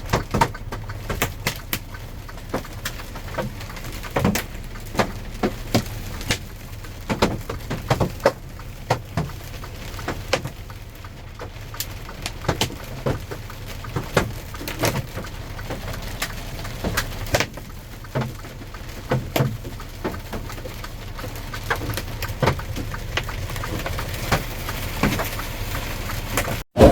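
Hailstones striking a truck's windshield and cab in irregular sharp knocks and cracks, several a second, over a steady low rumble.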